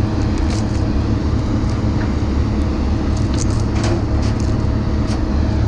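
A steady, low engine rumble, like a motor idling, runs throughout. Scattered light clicks and metal clinks sound over it as scrap parts are handled and pulled at.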